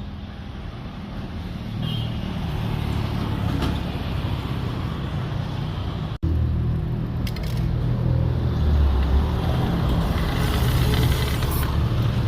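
A motor running steadily with a hissing noise over it; the hiss grows stronger near the end, and the sound breaks off for an instant about halfway through.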